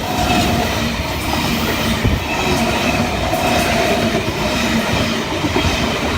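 NSW V set double-deck intercity electric train passing through the station without stopping: a steady rumble of wheels on the rails with a faint steady whine over it.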